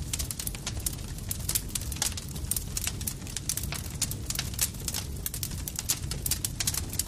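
Wood fire crackling: dense, irregular sharp pops and snaps over a steady low rumble of burning.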